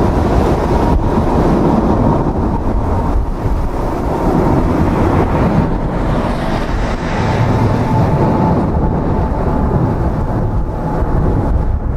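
Strong gusty wind buffeting the microphone, over the noise of a jet airliner, with a steady high whine that slowly drops in pitch.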